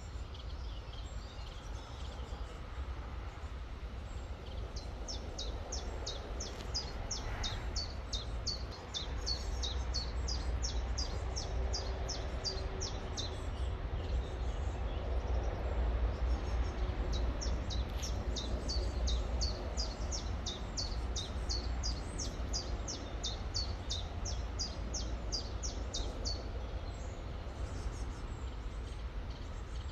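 A small bird singing two long runs of quick, repeated, high falling notes, about three or four a second, over the steady rush of a river and a low rumble.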